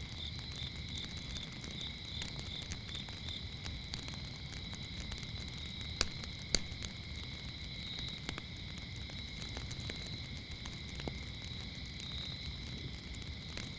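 Campfire crackling with scattered sharp pops, two loud ones about six seconds in, over a low steady rumble of the flames. Crickets chirp steadily, and a higher short chirp repeats about every second and a half.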